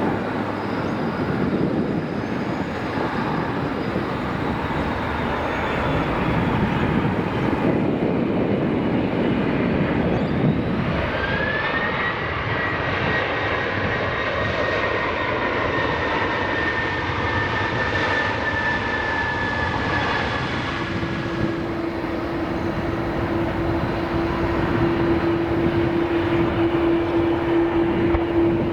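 Jet engines of a landing Airbus A330-300 airliner passing: a steady rumble, with a high engine whine that rises and then holds through the middle. Near the end a Boeing 767-300 freighter takes over with a steady low engine drone.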